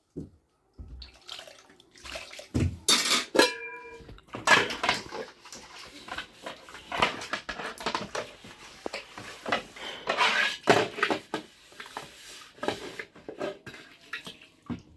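Water splashing and sloshing with irregular clatters and knocks of household things being handled, and a brief pitched sound about three and a half seconds in.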